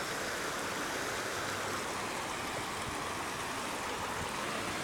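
Floodwater flowing steadily, a constant rushing hiss of running water.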